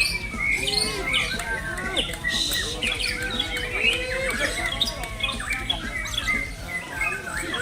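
Many caged songbirds singing at once, a dense tangle of overlapping whistles, chirps and trills.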